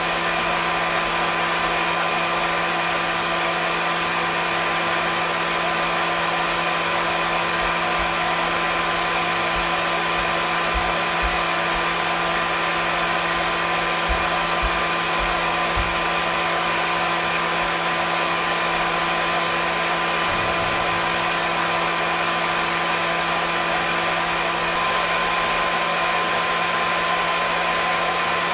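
Hair dryer running steadily: an even rushing hiss of blown air with a constant motor hum and whine, no change in speed.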